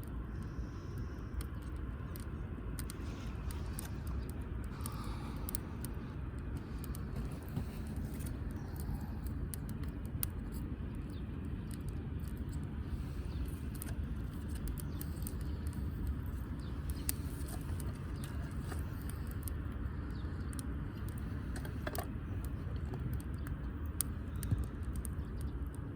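Firewood burning in a wood grill, with scattered faint crackles and pops over a steady low rumble.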